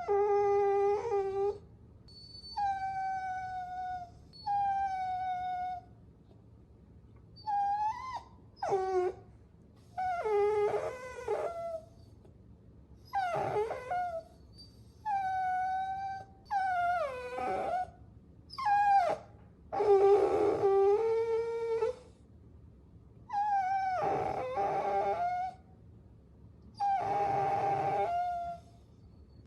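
Puppies whining: a dozen or so high, drawn-out whines, each a second or two long with short pauses between, some falling in pitch, with two voices overlapping at times.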